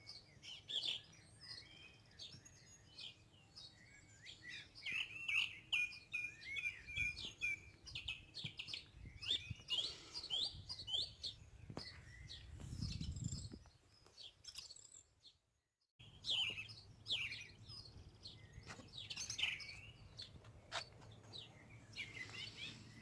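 Garden birds singing and chirping in quick, varied phrases, with a short break of silence about fourteen seconds in.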